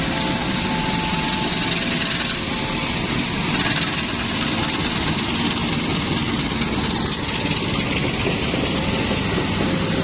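Diesel locomotive engine running steadily during shunting, a dense even rumble with no sharp events.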